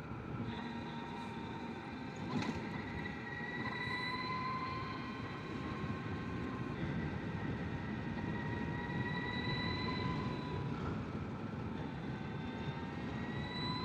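Energica Experia electric motorcycle riding on a gravel road: the electric drive's whine rises and falls gently with speed over the rumble of tyres on gravel and wind. A single knock sounds about two seconds in.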